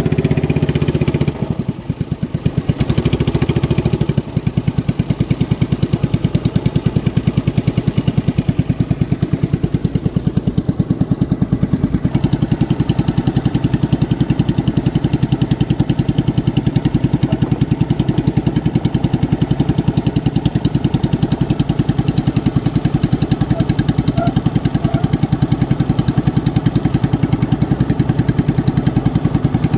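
Motorboat engine running with a rapid, even pulsing. It drops in level about two seconds in and comes back up about four seconds in.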